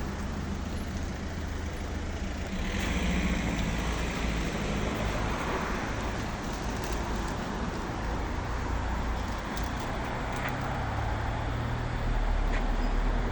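Road traffic: motor vehicles running, a steady low rumble with a louder swell of passing-vehicle noise about three seconds in.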